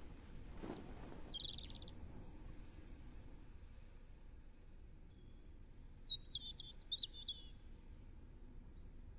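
Small songbird chirping: one short buzzy chirp about a second and a half in, then a quick run of high twittering notes about six seconds in, the loudest part, over a faint steady background hiss.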